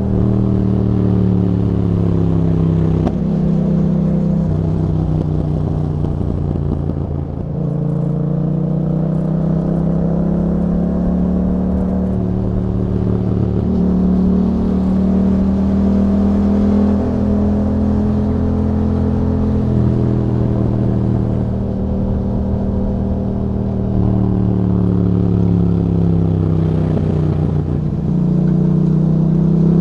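2021 Yamaha MT-07's 689 cc parallel-twin engine, breathing through an aftermarket Akrapovic exhaust with a dB killer, pulling and backing off on the move. The engine note rises and falls over and over, and its pitch steps suddenly several times at the gear changes.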